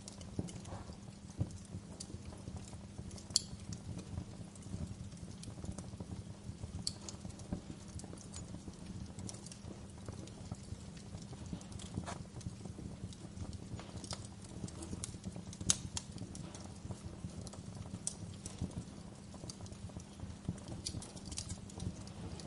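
Fireplace fire crackling: a dense, steady low crackle with sharp pops scattered through it, two of them louder, a few seconds in and about two-thirds of the way through.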